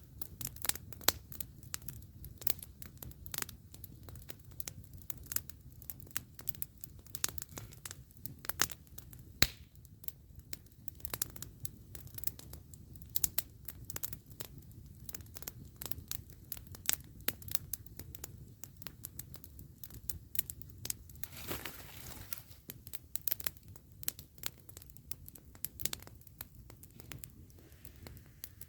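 Campfire crackling, with irregular sharp pops and snaps from the burning wood over a low, steady rumble of the flames. There is a brief hiss about three-quarters of the way through.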